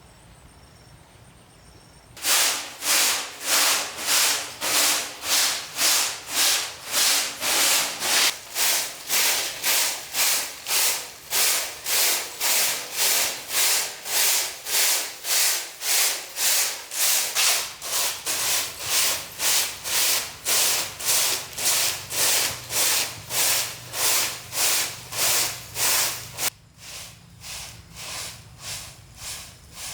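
Rhythmic rasping strokes of a hand tool worked back and forth on bamboo, about two strokes a second. They start about two seconds in and turn much quieter near the end.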